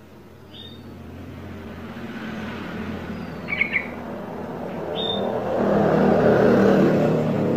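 A road vehicle approaching, its engine and road noise growing steadily louder and peaking about six seconds in. Short bird chirps sound a few times over it.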